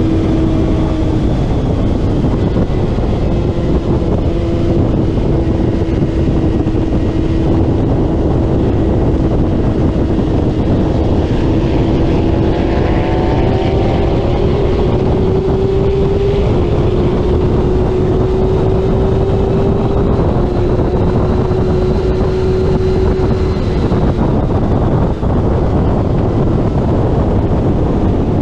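Racing motorcycle engine running hard at high revs through a lap, with wind noise on the microphone. The engine note holds steady, creeps slowly upward and steps a few times along the way.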